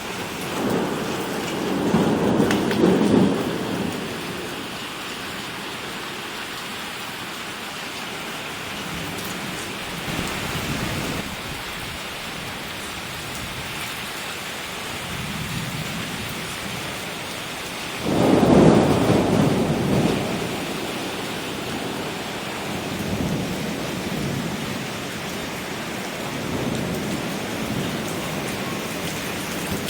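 Heavy rain hissing steadily in a thunderstorm, with two rolls of thunder: one in the first few seconds and a louder one that begins suddenly a little past halfway.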